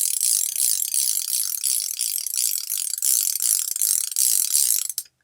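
ARC MT001 bicycle rear hub freewheeling, its pawls giving a loud, rapid buzz of clicks that cuts off suddenly near the end.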